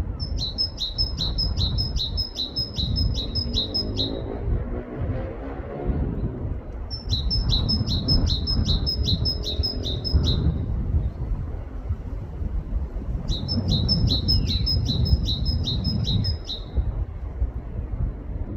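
Great tit singing its repeated two-note song: three bouts of about nine quick high two-note phrases each, with pauses of a few seconds between bouts. A steady low rumble runs underneath.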